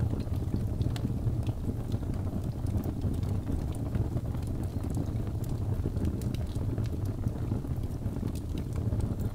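Wood fire burning in a fireplace: a steady low rumble with small crackles and pops scattered throughout.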